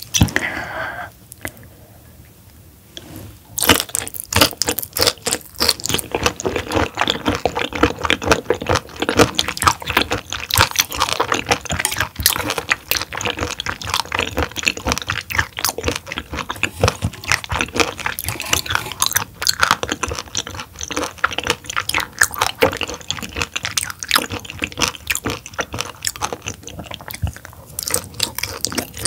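Close-up wet chewing and crunching of raw roughscale sole sashimi, a dense run of quick, irregular mouth clicks and squishes. It starts about three and a half seconds in, after a quieter opening.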